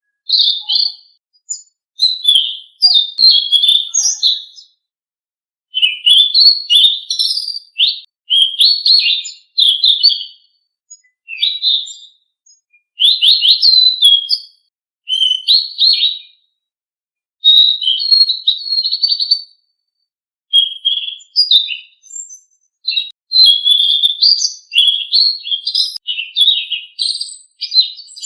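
A Selendang Biru songbird singing a masteran (bird-song training recording). It sings high, rapid, chattering phrases of a second or two each, separated by short pauses.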